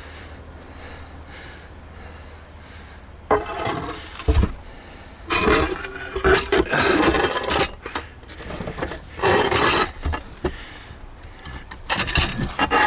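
Scrap granite slabs scraping and grating against one another as pieces are dragged from a pile, in several loud, harsh stretches after a quiet start, with a low knock about four seconds in.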